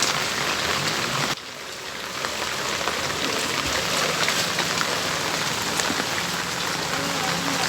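Steady rain falling, an even hiss flecked with small drop ticks; it drops abruptly about one and a half seconds in, then builds back up.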